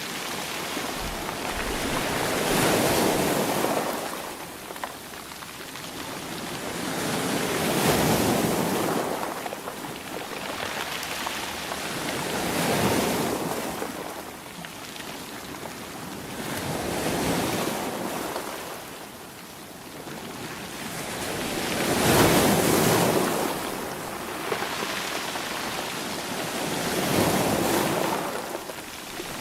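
Sea waves surging and falling back in a slow, regular rhythm, about one swell every five seconds, six in all.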